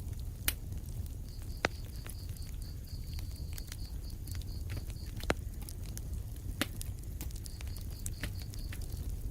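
Wood fire in a fireplace crackling, with a low steady rumble and scattered sharp pops; the loudest pops come about half a second in, at about a second and a half, and past five seconds.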